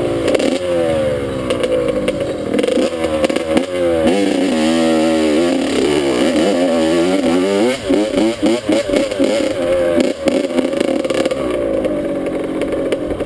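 Dirt bike engine being ridden, its pitch repeatedly rising and falling as the throttle is worked and the gears change.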